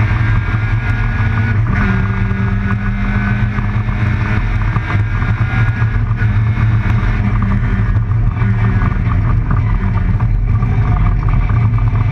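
Group A rally car's engine running hard at speed, heard from inside the cabin, with a brief break in the engine note about a second and a half in.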